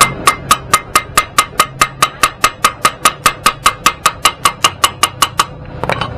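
Hammer striking metal in a steady run of about two dozen blows, roughly four a second, each ringing with a clear tone; the blows stop, then a couple more follow near the end.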